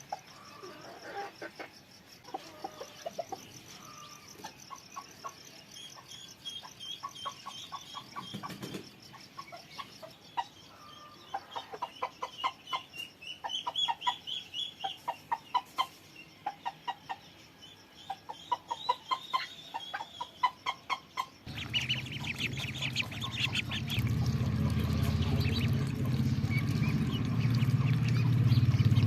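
Chickens clucking in quick runs of short repeated calls, with higher chirps among them. Past the two-thirds mark a louder steady low rumble comes in suddenly and keeps building under the birds.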